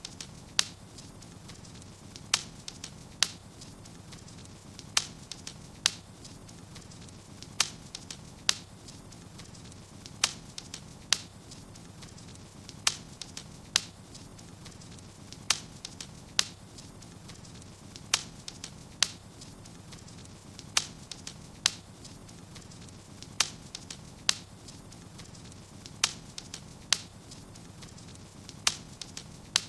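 Wood fire burning in a fireplace: sharp crackling pops over a low steady hiss. The pops come in pairs, one about a second after the other, every two to three seconds.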